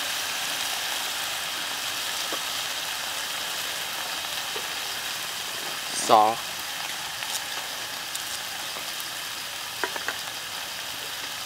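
Chopped garlic, onion and chili sizzling steadily in hot oil in a frying pan, with a couple of light clicks near the end.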